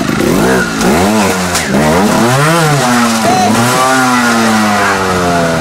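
Trial motorcycle engine revved in several quick blips, its pitch jumping up and dropping back each time, then the revs falling away in one long, slow drop.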